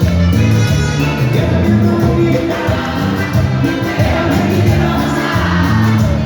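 Live band playing Latin cumbia music, with a steady, rhythmic bass line and no words sung.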